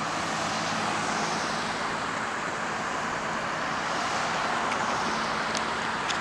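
Steady road traffic noise, a continuous rush of passing vehicles, with a few faint clicks near the end.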